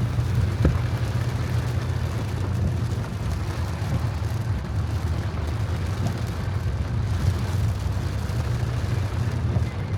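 A small SUV driving through flood water: a steady low vehicle rumble under a constant wash of water and rain noise, with one brief knock under a second in.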